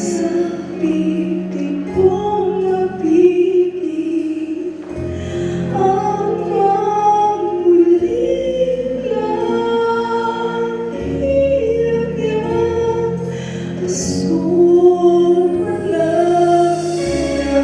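A song sung with instrumental backing: a sung melody over a bass line that changes note every two to three seconds.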